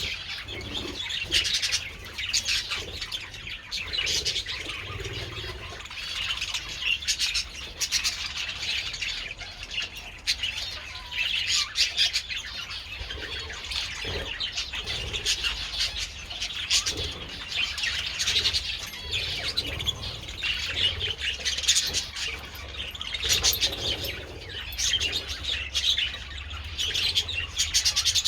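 A colony of budgerigars chattering and warbling nonstop, many birds at once, over a steady low rumble.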